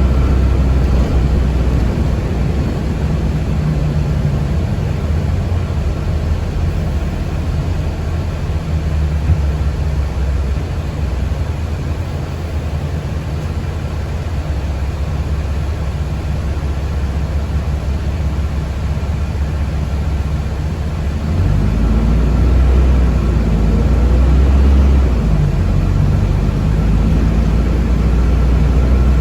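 Cabin noise inside a moving city transit vehicle: a steady low rumble with a faint constant whine above it, shifting and growing a little louder about 21 seconds in.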